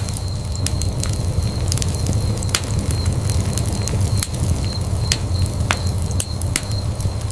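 Wood fire burning in a fireplace: irregular sharp crackles and pops, a few each second, over a steady low rumble of flames.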